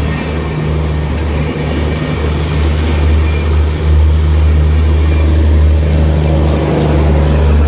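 LHB passenger coaches of an express train rolling past close by, a loud steady rumble of wheels on the rails.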